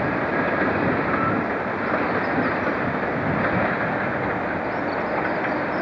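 Silver electric multiple-unit train running along a curved platform track, a steady noise of wheels on rails.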